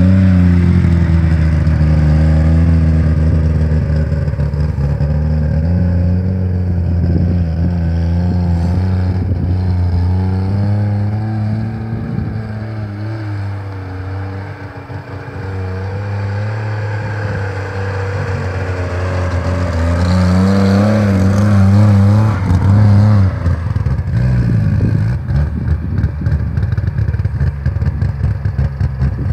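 DKW Munga's three-cylinder two-stroke engine running under load as the jeep drives over rough ground, its revs rising and falling. It grows louder in the last third, with rattling and knocks from the body over the bumps.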